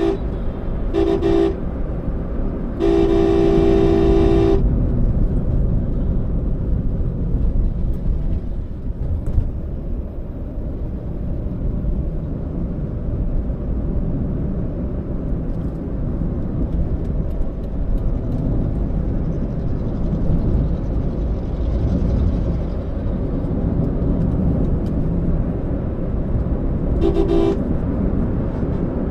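Car horn honking: a short beep at the start, another about a second in, a long blast of about two seconds, and one more short beep near the end. Under it runs the steady rumble of a moving car's road and engine noise.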